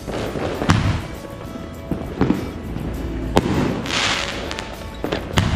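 Fireworks going off: a string of sharp bangs, about six over the few seconds, with a hissing crackle of sparks about four seconds in.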